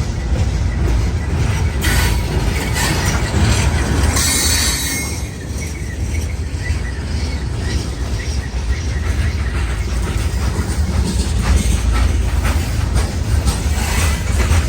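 Train rolling past, its cars rumbling and clacking over the rail joints, with a brief high wheel squeal about four seconds in.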